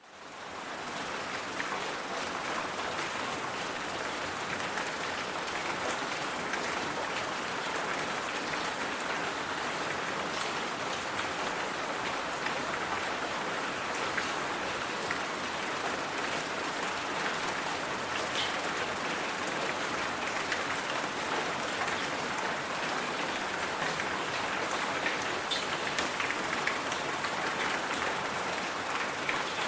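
Steady white noise with the sound of heavy rain: an even, dense hiss with a few faint scattered crackles, fading in over the first second.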